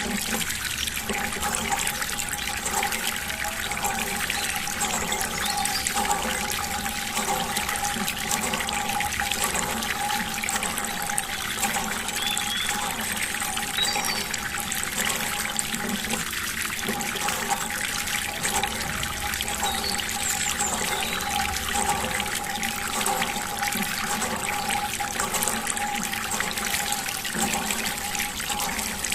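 Water running and trickling steadily, with a faint steady hum underneath.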